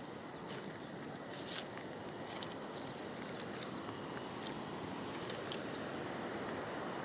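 Steady hiss of a flowing stream, with a few brief crackling rustles, the loudest about a second and a half in.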